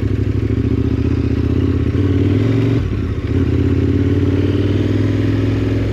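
KTM 1290 Super Adventure R's V-twin engine running steadily as the bike is ridden. The engine note drops briefly about three seconds in, then picks up again.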